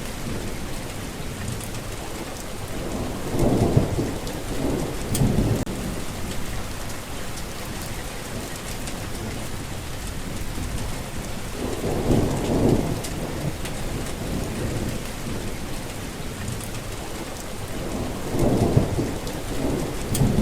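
Steady rainfall with low rolling thunder. The thunder swells three times: about four seconds in, about twelve seconds in, and near the end.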